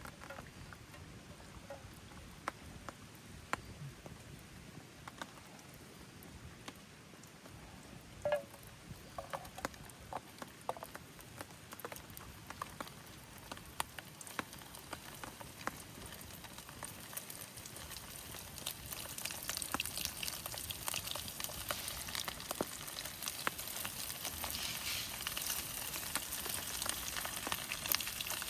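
Food frying in a pan: scattered ticks and pops at first, then a denser, steady sizzle builds about two-thirds of the way in.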